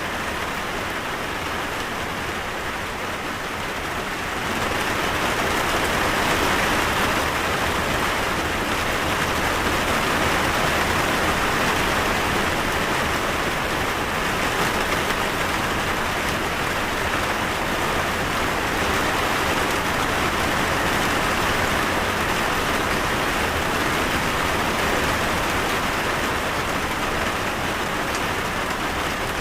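Steady rainfall, a continuous hiss of rain on a surface that grows heavier about five seconds in and then holds.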